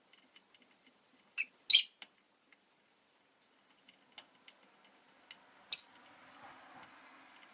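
Peach-faced lovebirds giving short, sharp, high-pitched chirps: three loud ones, two close together about a second and a half in and one near the end, with faint ticks and softer chirps between.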